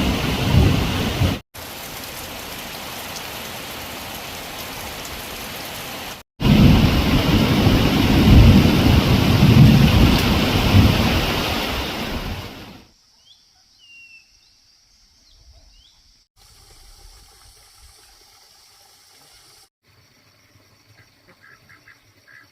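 Heavy rain with deep rolling thunder, loud, broken by two abrupt cuts; the middle stretch is steadier and quieter rain. About thirteen seconds in the storm fades away, leaving near quiet with a few faint high chirps.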